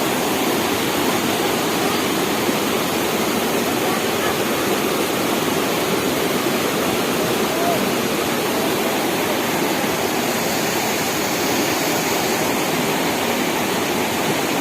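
A flooded stream's water rushing past in a steady, loud torrent, with faint voices underneath.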